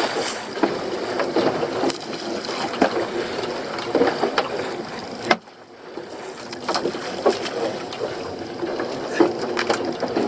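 Working sounds aboard a small fishing boat: a steady wash of water and motor with scattered knocks and clatter of gear. It cuts off abruptly about five seconds in and then builds back up.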